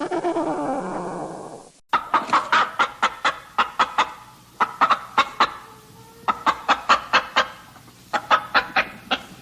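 Chicken clucking in quick runs of short clucks, four bursts of them, starting about two seconds in after a cut. Before that, the tail of a different pitched animal call.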